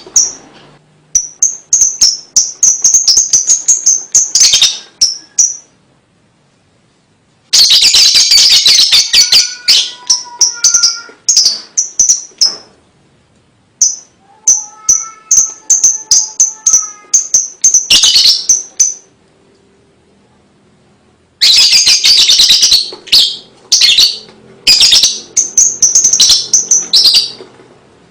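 Lovebird chattering (ngekek): long runs of rapid, high, clipped chirps in several bouts with short pauses between them. A fainter, lower whistling bird is heard behind it twice.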